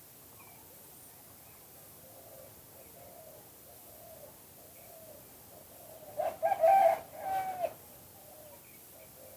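Spotted dove cooing: a run of faint low coos, then a much louder two-part coo phrase about six seconds in.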